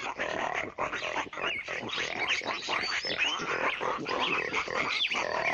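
Common warthog making short grunts, with birds chirping repeatedly in the background.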